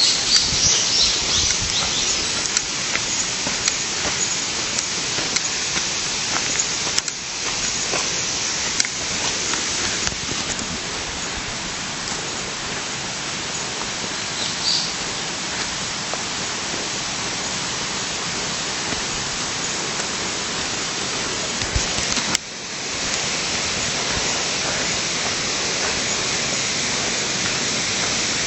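Steady rushing of flowing water from a stream, an even hiss that dips briefly about three quarters of the way through.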